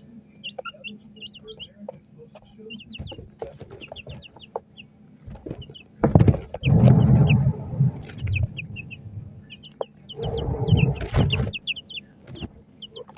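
Young chickens peeping, a string of short high chirps throughout, with two loud stretches of rustling noise partway through.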